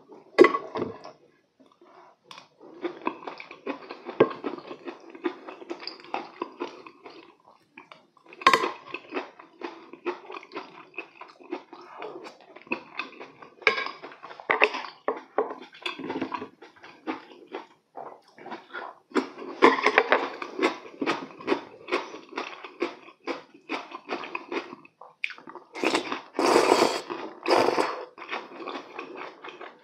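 Close-miked chewing of braised chicken, a dense run of short crackly mouth sounds, with a few sharp clinks of a spoon against a ceramic serving dish.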